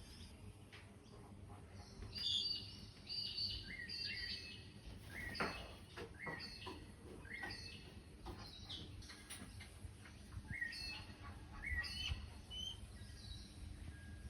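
Birds calling: a quick run of short, high chirps and whistles, starting about two seconds in and coming several times a second, over a low rumble of wind on the microphone.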